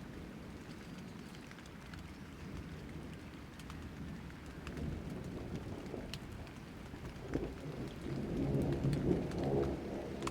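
Rain pattering with a low rumble of thunder that swells near the end.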